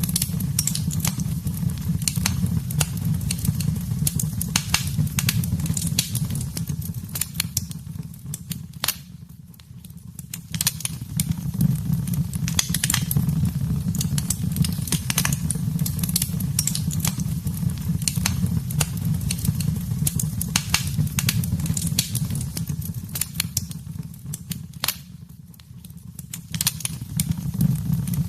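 Wood fire in a fireplace crackling, with many sharp irregular pops over a steady low rumble of the flames. The sound fades down briefly twice, about ten seconds in and again near the end.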